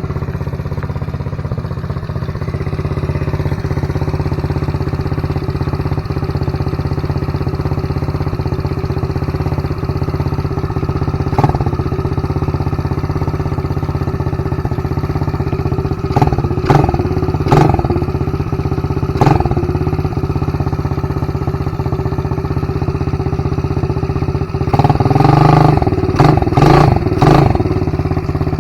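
TaoTao 150cc ATV's single-cylinder four-stroke engine running steadily, back running after repair, with a few brief louder bursts about halfway through and a cluster of them near the end.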